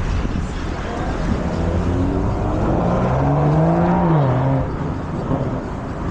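Road traffic with wind rumble on the microphone. A vehicle engine's pitch rises and then drops away about four seconds in.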